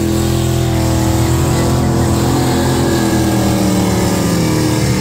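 1998–2002 Pontiac Firebird's engine held at high revs during a burnout, the rear tyres spinning and smoking. A loud, steady drone whose pitch wavers slightly.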